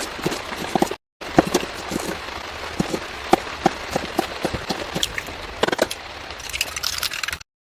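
Irregular crackles and taps over a steady hiss, broken by two brief drops to silence, one about a second in and one near the end.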